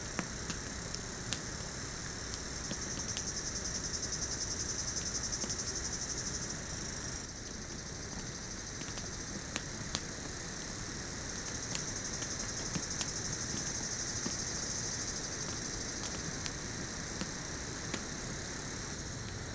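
Jungle insect chorus: a steady high buzzing that swells about three seconds in, cuts off suddenly around seven seconds, and builds again from about eleven seconds, over a background hiss. Scattered sharp clicks run through it.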